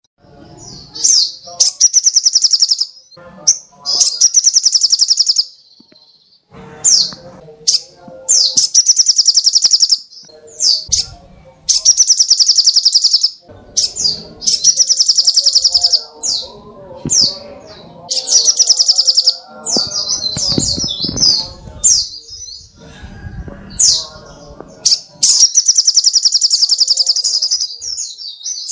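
Songbird tutor recording of 'tembakan' calls: loud, rapid, high-pitched trills repeated over and over, each lasting one to two seconds with short breaks between them.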